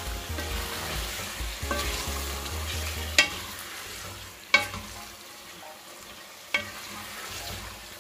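Shredded chicken with onions and tomatoes sizzling in a pot while a wooden spoon stirs it. The spoon knocks sharply against the pot three times in the second half.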